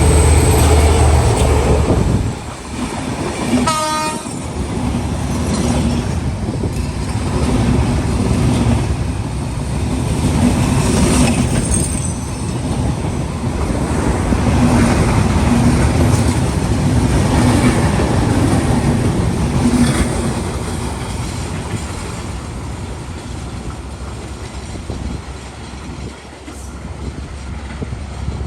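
Bangladesh Railway intercity express train passing at speed. The diesel locomotive's heavy rumble is strongest for the first two seconds, a short horn blast sounds about four seconds in, then the coaches' wheels clatter steadily over the rail joints and gradually fade.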